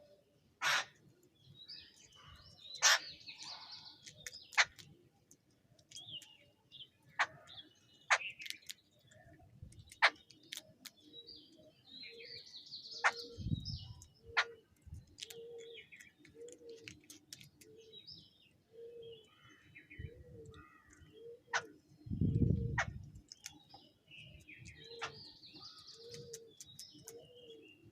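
Starlings and mynas chirping and calling while feeding, with frequent sharp clicks. From about halfway a low note repeats about once a second.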